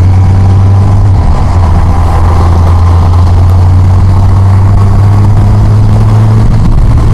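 Yamaha FJR1300 inline-four engine running at a steady cruise, a low constant drone under a rushing road noise, its pitch rising slightly near the end.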